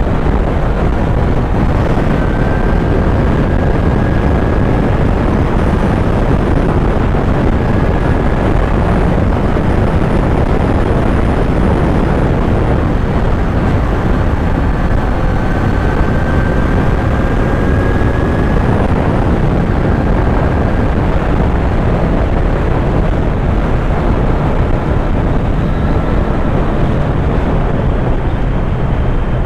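Kawasaki Z900 inline-four engine running under way, heard against a steady rush of noise, its engine note drifting gently up and down.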